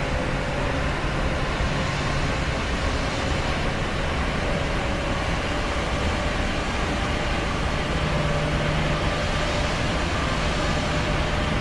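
Steady rushing roar of an airliner cabin in flight, with a low rumble and a faint steady hum that does not change.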